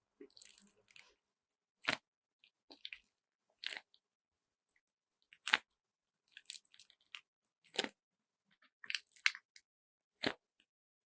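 Handmade squeeze bag of glitter bead slime squeezed by hand: short crunchy, crackling squishes about nine times, with silent gaps between them.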